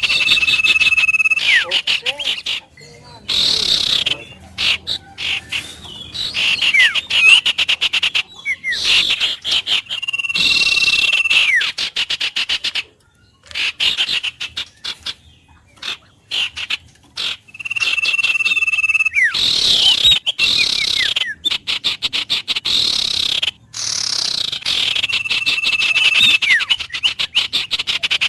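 Wild birds calling: a held whistled note followed by short falling notes, repeating about every eight seconds. Underneath runs a fast pulsing trill chorus that drops out briefly a couple of times.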